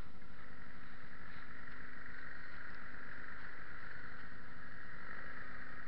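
Arctic Cat ATV engine running steadily, with a rapid low pulsing.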